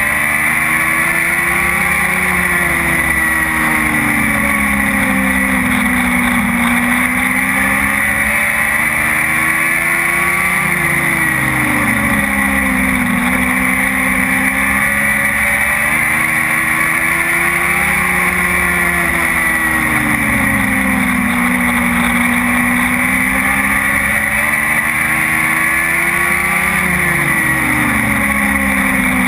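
Dwarf race car's motorcycle engine running hard around a short oval track. Its pitch climbs and then drops in a cycle that repeats about every eight seconds, lap after lap.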